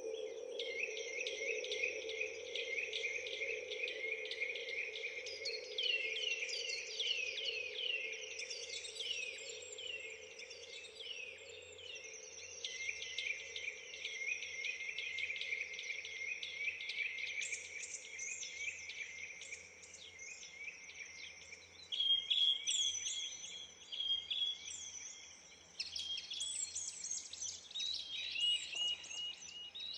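Small garden songbirds at feeders chirping and singing in rapid runs of quick high down-slurred notes, with clearer repeated piping notes from about two-thirds of the way in. A low steady hum underneath fades away over the first third.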